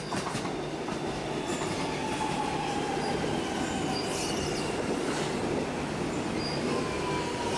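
Alstom X'Trapolis electric train running along the platform, a steady rumble of wheels on rail with a whine that falls slowly in pitch.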